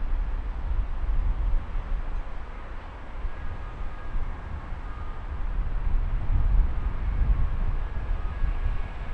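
Train running through a station: a low rumble, with faint short squealing tones from about three seconds in.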